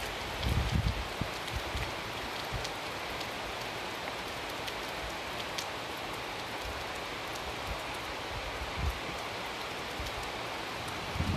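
Steady rain falling in a thunderstorm, with scattered sharp drop ticks and a few brief low rumbles. A louder low rumble of thunder begins right at the end.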